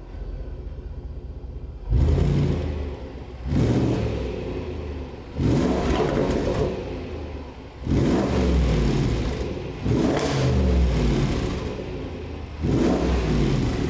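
Supercharged 5.0-litre V8 of a Range Rover Sport SVR idling low on a cold start, then revved sharply about six times, each rev rising fast and falling back to idle.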